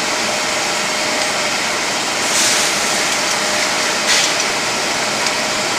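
Diamond-wheel grinding machine running with a steady whir and a faint hum, broken by two brief bursts of hiss about two and a half and four seconds in.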